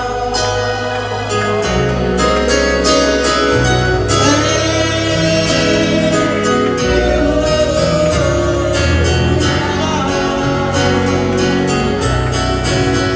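Gospel worship music with a moving bass line, regular drum strikes and a voice holding long notes without clear words.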